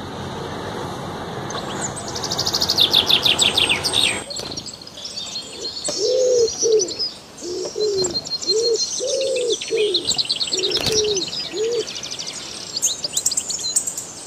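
Birds chirping in rapid high trills. From about six seconds in they are joined by a run of short, low calls repeated roughly every half second.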